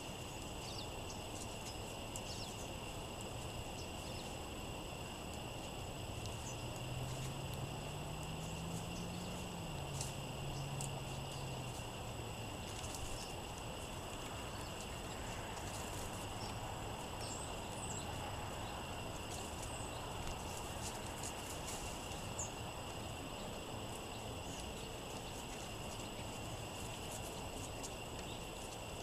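Outdoor ambience on a windy day: a steady rush of wind noise with scattered short, high chip notes from small songbirds, over a steady high-pitched whine. A faint low hum rises and then falls in pitch between about six and twelve seconds in.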